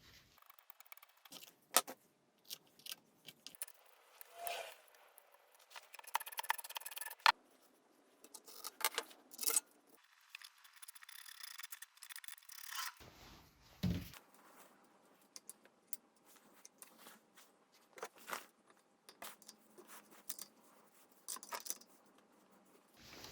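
Irregular clicks, taps and short scrapes of tools and small metal engine parts being handled and fitted, in several short cut-together stretches.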